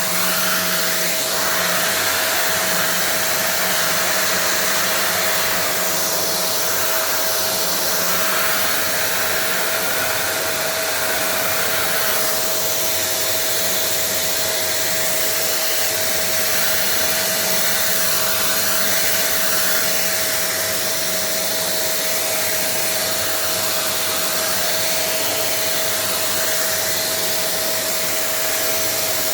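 Vacuum cleaner running steadily, pulling air through a 3D-printed turbine duster: a steady rush of air with one constant whine on top.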